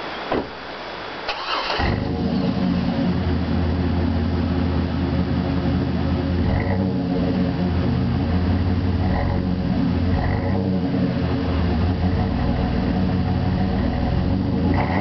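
Chevrolet S-10 ZR2's 4.3-litre V6 cranking briefly and catching about two seconds in, then idling steadily through a dual exhaust with Flowmaster 40 mufflers.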